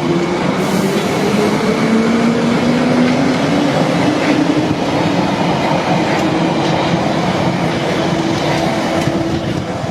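London Underground 1973 Stock Piccadilly line train pulling away from the platform, its traction motors whining and rising slowly in pitch as it accelerates, over the running noise of the wheels on the rails.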